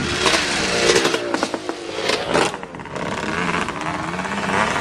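Dirt bike engines revving as racing motorcycles ride by, their pitch rising and falling as the riders work the throttle.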